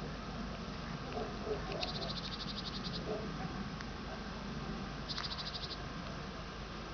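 Outdoor wildlife sounds with two short, high, rapid ticking trills at about ten pulses a second, the first a little over a second long and the second about half a second, a few seconds apart.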